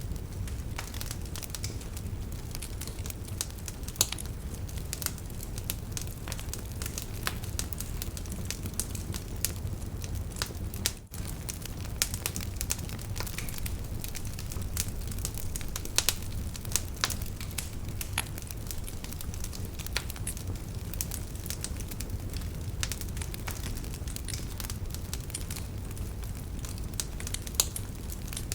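Fire crackling in a fireplace: frequent irregular pops and snaps over a steady low rumble, briefly dipping once partway through.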